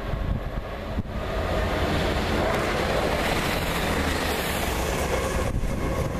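Passenger train passing close by at speed: a low rumble of wheels on rail with a broad rushing hiss that swells about a second in and eases off shortly before the end.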